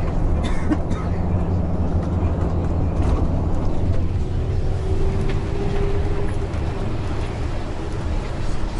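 Bus engine running with road noise, heard from inside the passenger cabin, with a steady higher whine for about two seconds in the middle.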